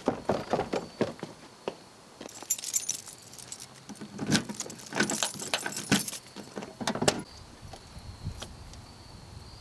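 A bunch of car keys jangling, with irregular clicks and knocks. The busiest jingling comes from about two to six seconds in.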